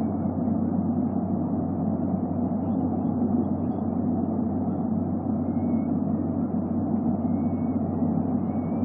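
Steady low background rumble on the nest-camera microphone, even in level, with a constant low hum under it. A few faint, short, high thin calls sound over it in the second half.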